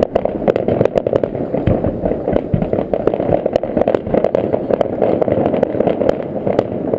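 Fireworks crackling and popping in a dense, rapid stream of sharp cracks over a steady low rumble.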